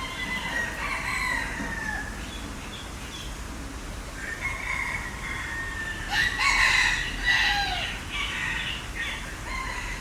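Fowl calling: several long, crowing calls that fall in pitch at the end, some overlapping, the loudest about six to seven seconds in.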